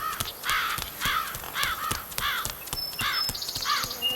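Bird call sound effect: a string of repeated calls, each rising and falling in pitch, about two a second, with a few short high peeps about three seconds in.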